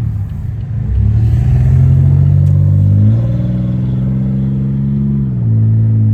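Tuned, catless Pontiac Grand Prix GT's 3.8-litre V6 running loud under throttle. The exhaust note is steady at first, climbs in pitch about three seconds in and holds, then drops back and falls away at the very end.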